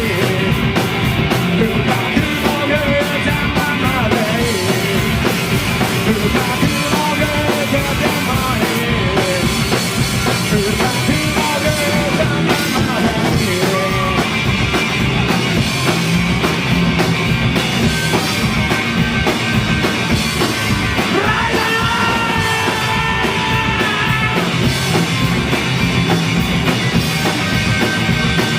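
Live rock band playing a fast punk/garage-rock song: guitars, bass and a driving drum beat, loud and steady throughout.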